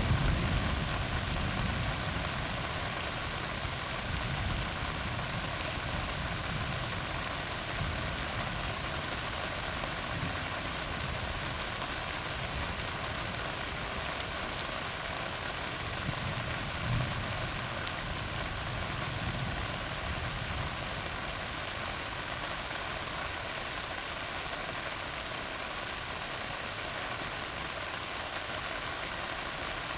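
Steady rain falling on a tar road: an even hiss with scattered sharp drip ticks. A low rumble of thunder dies away in the first second.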